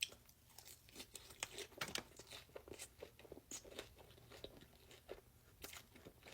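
A person biting into and chewing crunchy food close to the microphone, with a dense, irregular run of sharp crunches.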